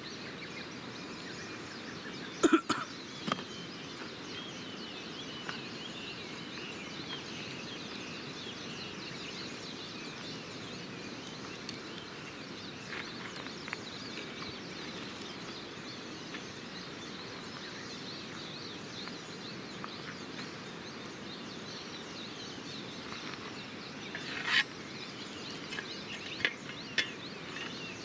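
Wood campfire burning with a steady hiss, broken by occasional sharp crackles and pops: a cluster a couple of seconds in and a few more near the end.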